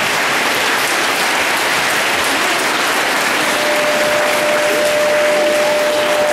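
Audience in a large room applauding steadily. A single steady tone joins about halfway through and holds.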